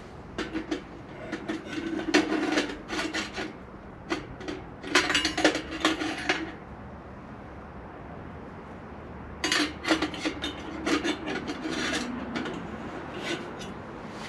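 Split firewood being handled and fed into a steel wood stove, the pieces scraping and knocking against each other and the metal. This comes in three stretches of rasping: at the start, around five seconds in, and again from about nine and a half seconds.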